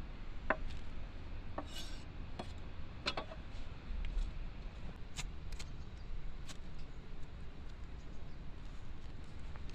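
Cooking at a wood fire: about ten irregular sharp clicks and knocks over a steady low background.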